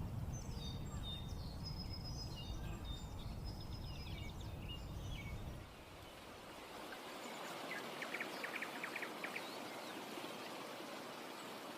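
Outdoor ambience of several birds chirping and singing in short high notes over a low rumble, such as wind on the microphone. About halfway through the sound changes abruptly to a steady hiss with a short, rapid trill near the end.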